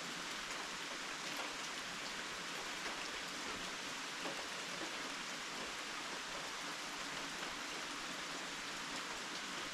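Steady rainfall: an even hiss with scattered faint ticks of individual drops.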